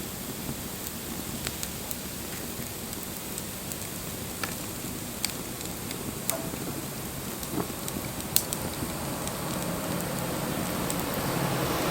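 Wood bonfire crackling: a steady hiss with scattered sharp pops, and a low rushing sound of the flames growing louder near the end.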